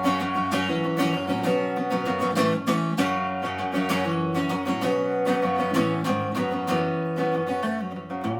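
Live acoustic guitar strumming a steady rhythm in an instrumental passage of a folk song, with no singing.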